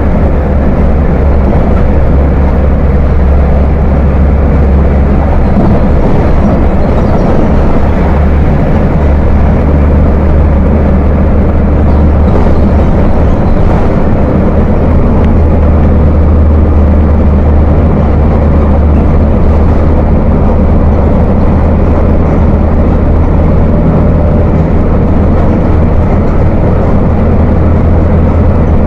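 Volkswagen 17.230 OD bus engine running steadily with a deep, heavy rumble ("ronco grosso").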